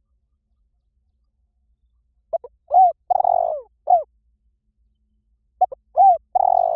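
Spotted dove cooing: two phrases, starting about two seconds in and about three seconds apart. Each phrase is a few short coos with one longer, rolling coo in the middle.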